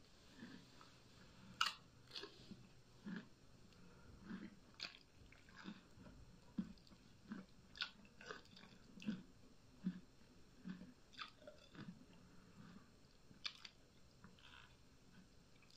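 Close-miked chewing of instant noodles: soft, wet mouth smacks and clicks a little more than once a second.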